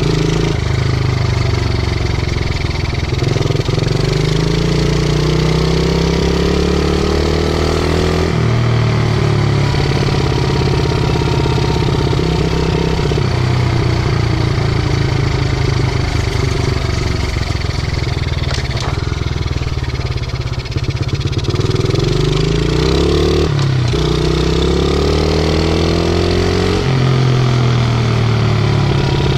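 50cc pit bike engine running under throttle while riding. Its pitch climbs steadily for several seconds and then drops abruptly, once early on and again twice near the end, as the revs build and fall away.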